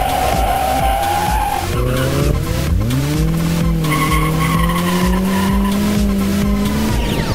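A Corolla drift car with its tyres squealing briefly at first. About two and a half seconds in, the engine revs up sharply and is held high, climbing slowly before it drops off near the end. Electronic dance music plays underneath.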